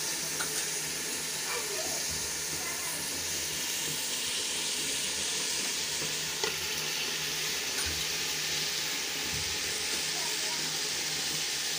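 Hot oil and masala sizzling steadily in a large aluminium pot as fresh fenugreek leaves are tipped in, with a light knock about six and a half seconds in.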